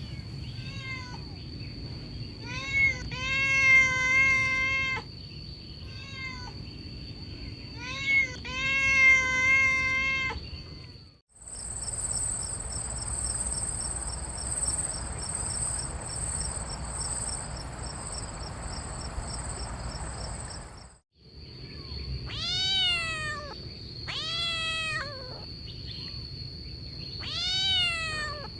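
Kittens meowing: two long, level meows in the first third, then several short meows falling in pitch after about 21 seconds. Between them, after an abrupt cut, a high pulsing trill of insects over a steady hiss runs for about ten seconds, then cuts off.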